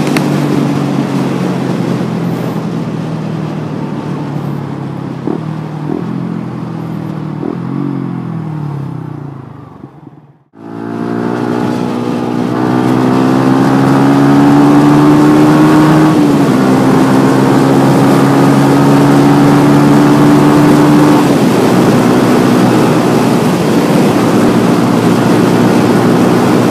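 Yamaha M-Slaz 150cc single-cylinder motorcycle engine heard from the rider's seat. The engine note falls as the bike slows, cuts out for a moment about ten seconds in, then rises as the bike accelerates. The pitch steps down at a gear change and the engine settles into a steady cruise.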